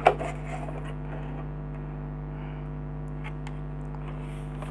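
Faint clicks and taps of a compressor nebulizer's plastic housing being taken apart by hand, over a steady low hum.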